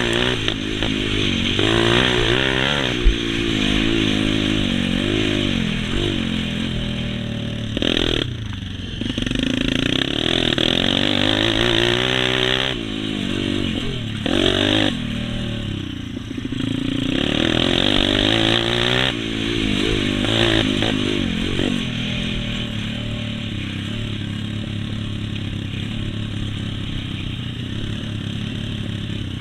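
Motocross bikes' engines running on the track, their pitch climbing and dropping again and again as they accelerate, shift and back off, then settling to a steadier drone in the last several seconds.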